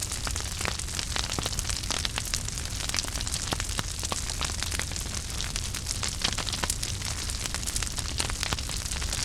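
Wood fire burning in a fireplace: a steady hiss and low rumble with frequent irregular crackles and pops.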